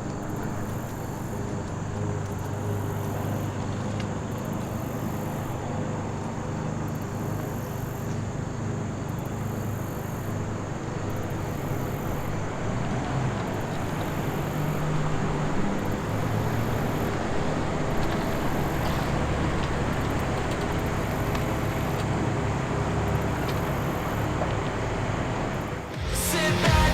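Steady car noise, a low engine hum and road rumble that holds level throughout. It dips briefly just before the end.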